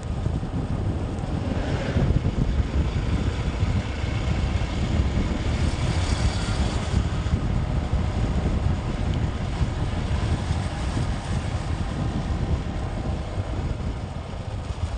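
Steady wind rush and low rumble on a microphone riding along on a moving motorcycle, with a louder hiss swelling briefly about six seconds in.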